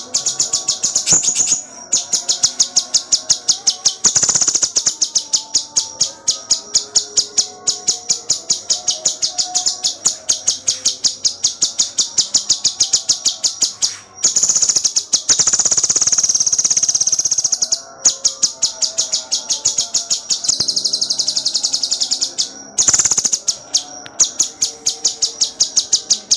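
A cucak cungkok singing a fast, tight run of sharp high chirps, several a second, broken by a few brief pauses, with a couple of longer continuous trills about halfway and about two-thirds through.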